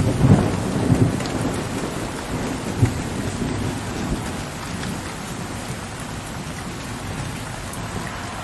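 Steady rain with a low rumble of distant thunder at the start that dies away over the first few seconds, leaving only the even hiss of the rain.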